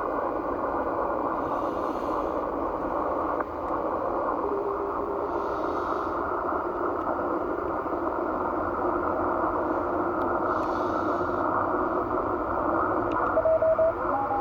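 Shortwave transceiver receiving on the 17 m band in CW mode: steady band hiss through a narrow receive filter, with a faint Morse tone partway through and a few louder Morse beeps near the end.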